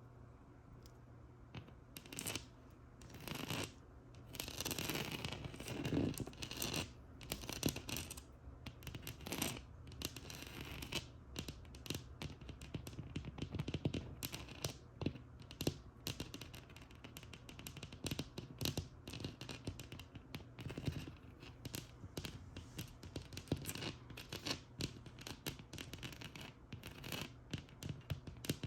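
Scratching and tapping on a textured wall: a few longer scratching strokes in the first third, then a run of quick, irregular taps and short scratches.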